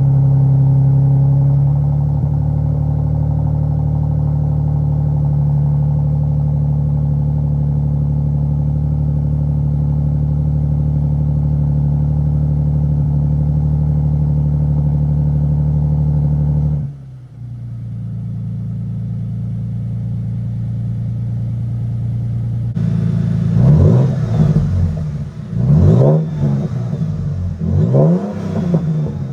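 Toyota 5.7-litre V8 running through an aftermarket exhaust: it idles steadily, then from about 23 s it is revved several times in quick rising and falling blips.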